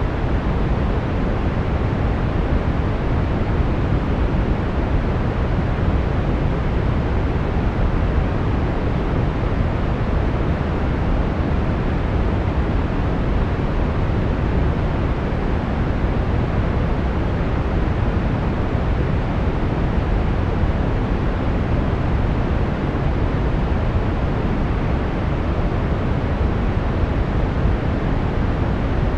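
Brown noise: a steady, even hiss weighted toward the low end, with no tones or changes.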